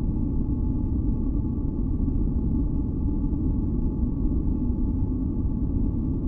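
A steady, deep ambient noise track for sleep or masking, its energy mostly in the bass, with a few faint held tones above it. It does not change at all.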